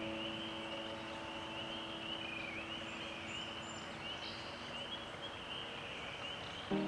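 Marsh ambience: a steady chorus of high, short rising calls. A sustained background music chord fades out about halfway through.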